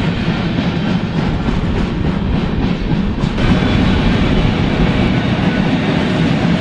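Freight cars rolling past at close range, their steel wheels running on the rails in a steady, loud rumble, with wind on the microphone. A little over three seconds in, the higher hiss drops away as a second freight train's cars take over.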